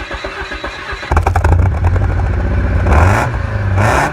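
Engine and exhaust of a vehicle fitted with an experimental exhaust, first idling with an even pulsing, then revved hard about a second in with a deep loud drone. Two short rushing bursts come near the end as the revs climb.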